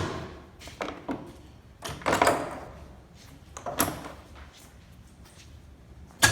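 A few knocks and a rattling clatter of metal parts being handled, spaced a second or two apart, then a sharp click at the very end.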